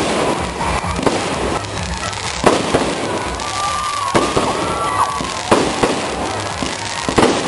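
Fireworks display: a bang goes off every second or so over a continuous crackle of bursting shells.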